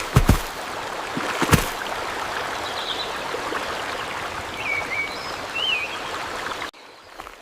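Forest ambience of a flowing stream, with two sharp knocks in the first couple of seconds and a few short chirping calls later; it cuts off suddenly near the end.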